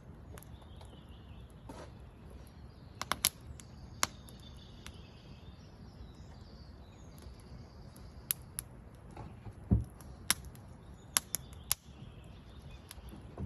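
Wood fire crackling: a steady low hiss broken by about a dozen sharp, irregular pops and snaps.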